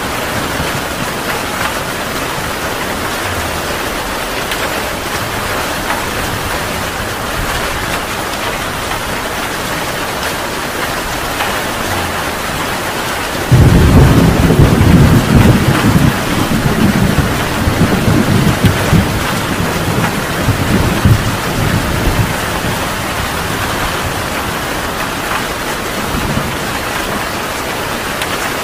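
Heavy rain falling steadily. About halfway through, a loud thunderclap breaks in suddenly and rolls on in waves for several seconds before fading back under the rain.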